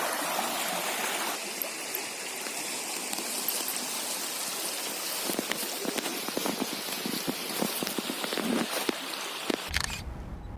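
A narrow river flowing: a steady rushing of water, with a few faint ticks over it. A low rumble comes in near the end.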